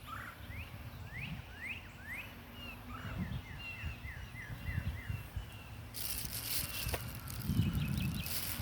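Songbirds singing: a series of rising slurred whistles, then a run of quick, evenly spaced falling notes. About six seconds in, a loud hiss covers the upper range, with low rumbling underneath throughout.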